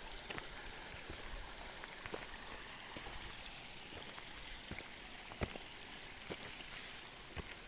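Mountain river cascades rushing in a steady, even hiss of running water, with irregular sharp clicks scattered through.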